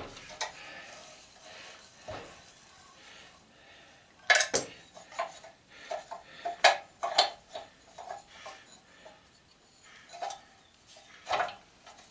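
Metal tools and sander parts clinking and clanking as they are handled on a workbench: scattered short knocks, the loudest a quick double clank a little over four seconds in, then irregular clinks.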